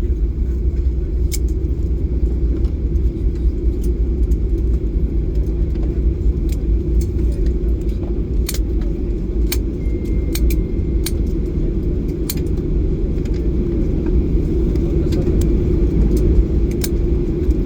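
Steady low rumble of a Boeing 737-800 rolling on the ground after landing, with scattered light clicks and rattles throughout.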